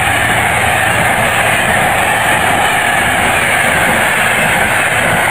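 Passenger coaches of a train rushing past close by at speed: a steady, loud rush of wheels on rail.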